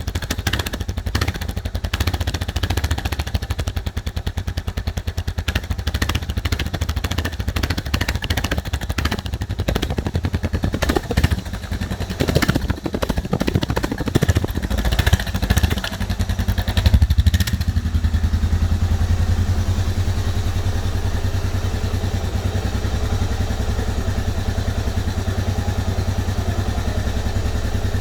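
Suzuki DR650's single-cylinder four-stroke engine running unevenly with rises and falls in revs, then settling into a steady idle about two-thirds of the way through.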